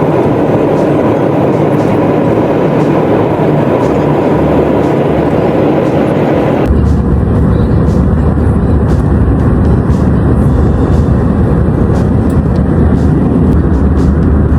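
Jet airliner cabin noise: a loud, steady roar of engines and airflow. About seven seconds in it switches abruptly to a deeper rumble with less hiss.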